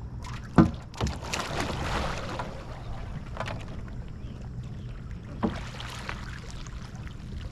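Water splashing and churning as a kayak is capsized and rolled back upright in a butterfly roll: a sharp splash about half a second in, another just after, a couple of seconds of rushing water, then two smaller splashes.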